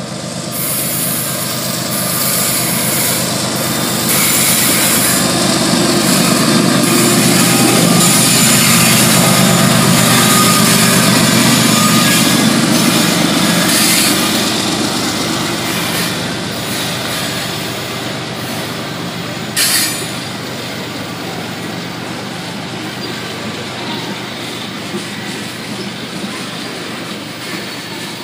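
Canadian Pacific diesel-hauled freight train passing close by: the locomotive's rumble builds to its loudest in the first half, then eases into the steady rolling of tank and hopper cars, steel wheels on the rails. One sharp bang about twenty seconds in.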